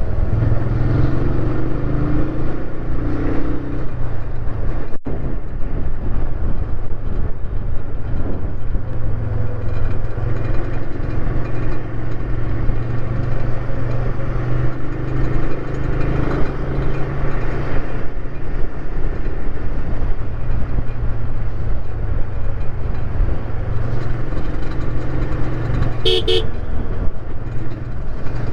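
Motorcycle running steadily while being ridden, with a short horn beep near the end.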